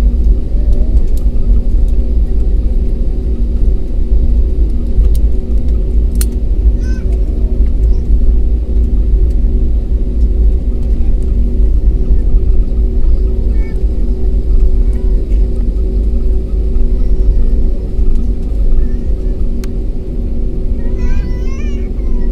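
Airliner cabin noise during take-off: jet engines drone steadily over a heavy, continuous low rumble.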